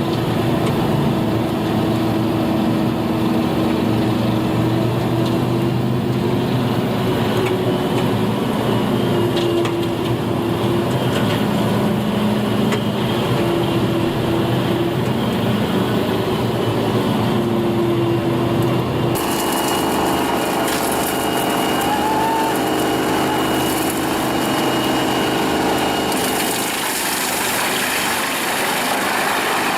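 Engine of a wood chipper running steadily. About two-thirds of the way through, the sound switches abruptly to another machine's engine with a thin high whine.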